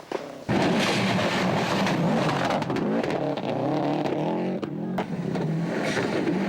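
Subaru Impreza 555 rally car's turbocharged flat-four engine at full throttle: after a brief quiet moment at the start, it revs hard, its pitch climbing and dropping sharply at each gear change.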